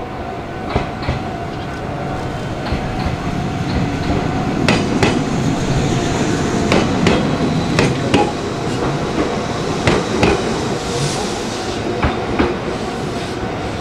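Meitetsu electric train pulling out of the station, its wheels clacking over rail joints and points in pairs of sharp clicks every couple of seconds over a steady running rumble.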